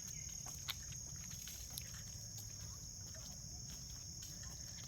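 Steady high-pitched insect chorus, like crickets, holding one unbroken drone, over a low outdoor rumble, with a couple of faint ticks.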